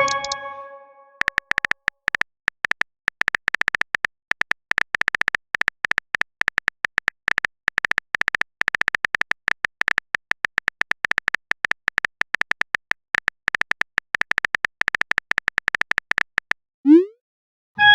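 Rapid, irregular clicks of a phone-keyboard typing sound effect lasting about fifteen seconds. At the start, the ringing of a message notification chime fades out, and near the end a short rising swoop is heard.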